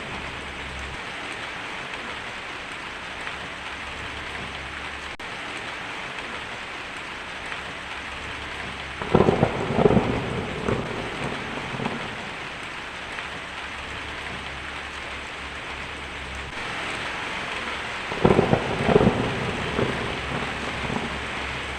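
Steady heavy rain falling, with two rumbles of thunder breaking through: one about nine seconds in and another near the end, each lasting a second or two.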